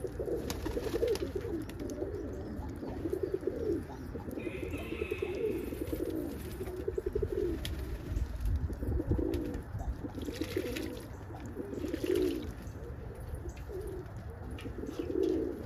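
Domestic pigeons cooing repeatedly, several calls overlapping one after another, with a brief higher chirp about five seconds in.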